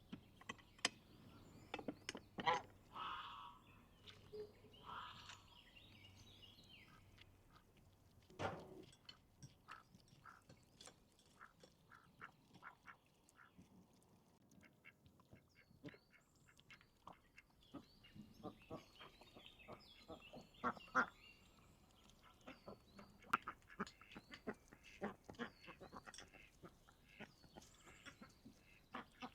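Ducks quacking among scattered sharp clicks and knocks, with small birds chirping high in the background.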